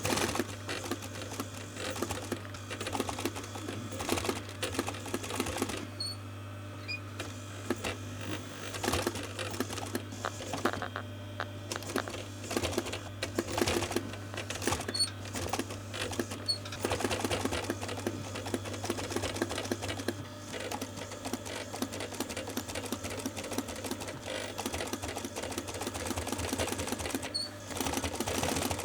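Sewing machine stitching the panels of a car seat cover in stretches, its needle clattering rapidly over a steady motor hum, with a couple of short pauses.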